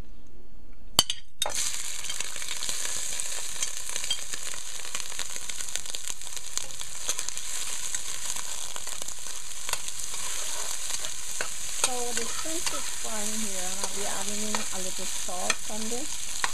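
Raw shrimp hit hot oil in a stainless steel pan with a clatter, then fry with a steady loud sizzle as they are stirred with a wooden spatula. A wavering pitched sound comes in over the sizzle for the last few seconds.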